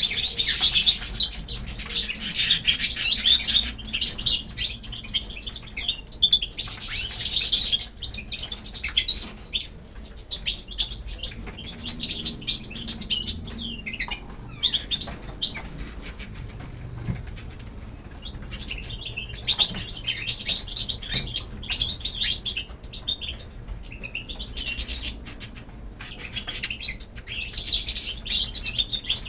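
Small birds chirping rapidly, several calling over one another in bursts with quieter gaps between, along with some wing flapping.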